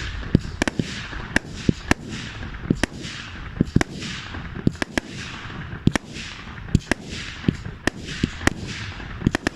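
Fireworks firing in quick succession: a steady run of sharp bangs, about one or two a second, each trailed by a hissing crackle.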